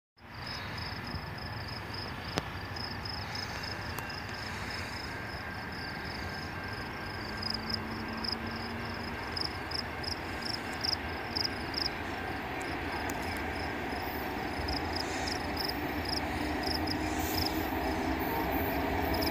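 Distant approaching train led by an EMD SD60 diesel locomotive: a steady rumble that slowly grows louder, with a regular high-pitched ticking over it.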